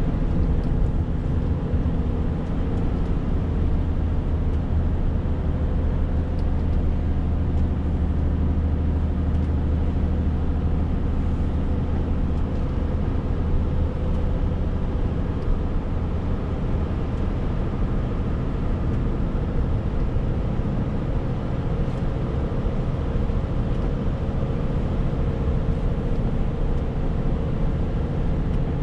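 Renault T520 lorry's 13-litre six-cylinder diesel running at a steady pitch under way, with road noise. A deep low hum is stronger for the first ten seconds or so, then eases.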